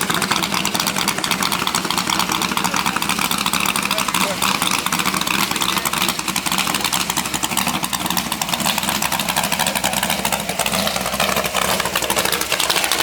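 A car engine idling with a steady, rapid rumble of firing pulses.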